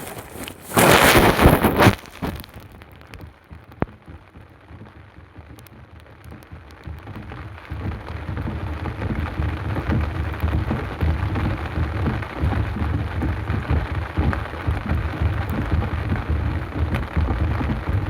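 Heavy rain falling, swelling from light to a steady, dense downpour over the first eight seconds or so. A short, loud burst of noise comes right at the start.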